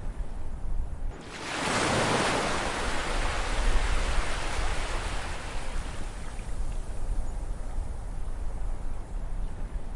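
Ocean waves: a wave breaks about a second in, and its rushing wash slowly fades over the following seconds, over a steady low rumble of surf.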